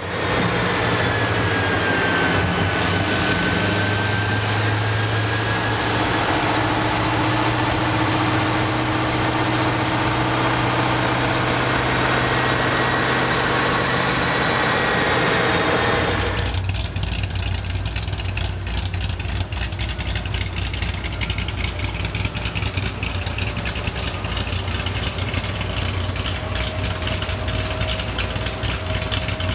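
A V8 engine idling, with a high whine over it that wavers in pitch. About halfway through the whine stops suddenly and a rougher, choppier idle carries on.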